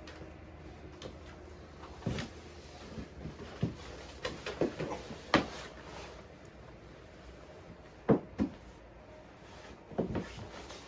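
Irregular knocks and clunks of things being handled and set down in a small room: a few single knocks, a quick cluster of them in the middle, and a couple more near the end.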